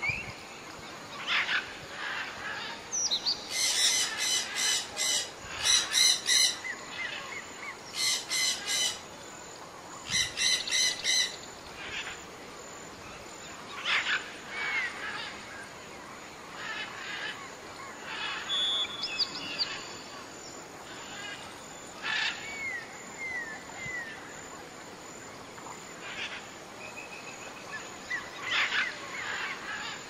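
Wild birds calling and chirping, with four short, fast trills in the first half and scattered chirps and short whistled glides throughout.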